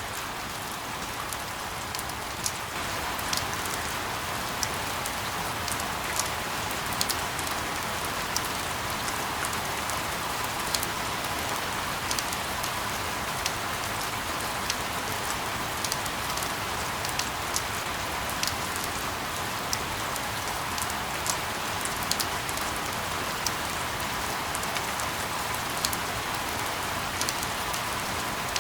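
Steady rain falling: a dense, even hiss dotted with many sharp drop ticks, a little louder from about three seconds in.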